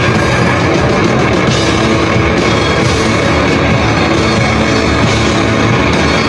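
A live rock band playing loud, dense rock music at full volume, with drum kit and guitar.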